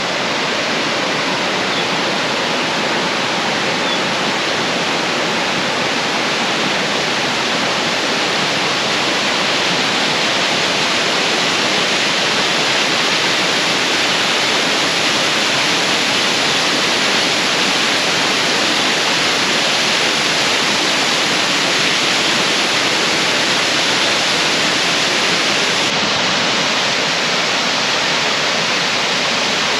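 A large, high waterfall pouring, giving a constant loud rush of falling water.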